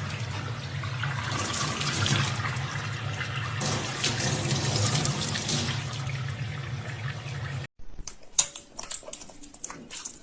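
Running water like a tap pouring into a sink, a steady rush with a low hum under it. It cuts off abruptly near the end, giving way to scattered light clicks and knocks.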